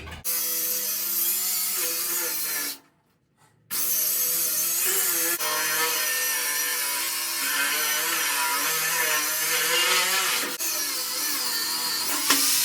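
Angle grinder cutting into old welds on a steel tractor frame, the disc grinding against the metal while the motor's pitch wavers under load. It stops briefly about three seconds in, starts again, and near the end is released and begins to spin down with a falling whine.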